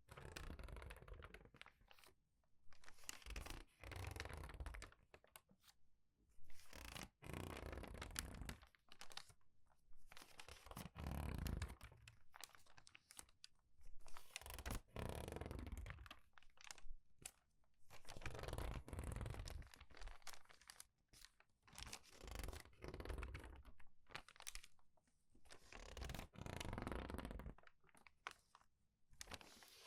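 Crinkled paper pages being turned quickly and squeezed, a crinkly rustle that comes again every second or two with short pauses between.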